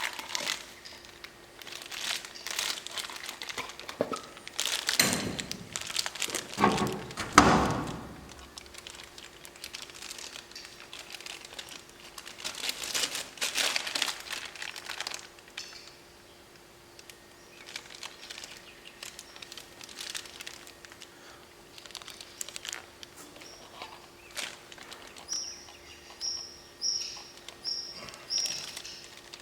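Crinkling and rustling of packaging with scattered knocks as new brake parts are unwrapped and handled, loudest about a third of the way in. Near the end a bird chirps in a quick, even series.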